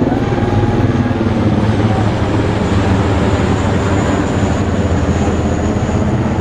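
Military flyover by an HC-130J Combat King II turboprop and two HH-60W Jolly Green II rescue helicopters: a loud, steady rumble of engines and rotors, with a faint high whine joining about four seconds in.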